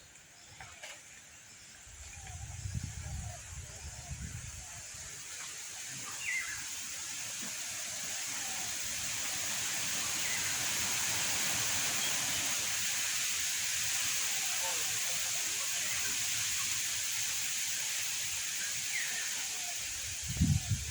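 Outdoor nature ambience: a steady high-pitched hiss that builds over the first several seconds and then holds, with a few faint short bird chirps. There is a low rumble a couple of seconds in, like wind on the microphone.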